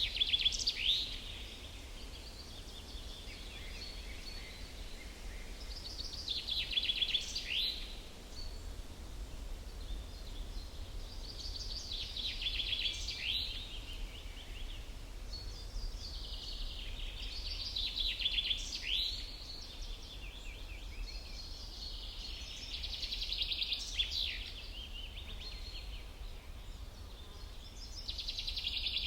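A songbird singing the same short trilled phrase about every six seconds, each phrase ending in quick downward sweeps, over a steady low rumble.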